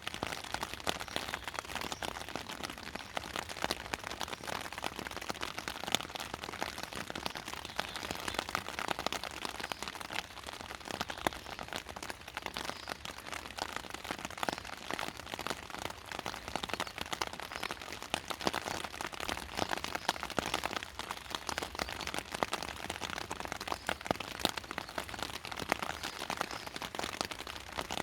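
Steady soft rain: a dense patter of raindrops hitting surfaces.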